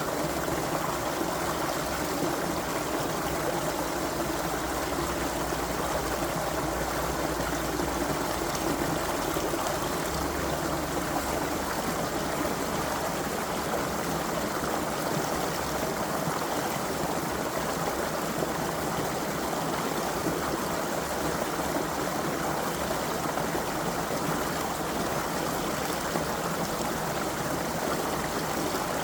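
Creek water flowing steadily over stones, an even rushing and babbling.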